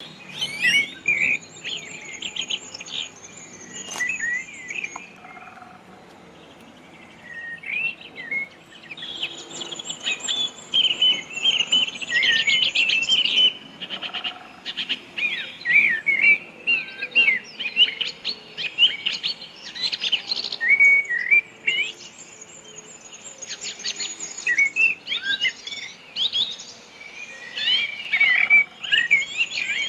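Several small birds chirping and twittering at once, with quick rising and falling chirps overlapping and a high thin trill that starts and stops several times.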